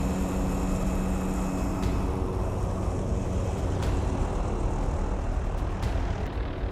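Helicopter running, a steady dense rumble of engine and rotors, with a humming tone that fades out about two seconds in.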